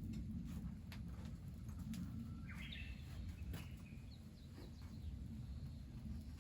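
A short burst of bird chirping about halfway through, over a steady low rumble, with a few scattered faint clicks.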